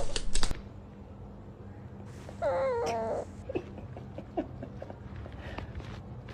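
A few sharp clicks at the start, then a dog whimpering: one wavering whine lasting under a second, a couple of seconds in, followed by a few short faint squeaks.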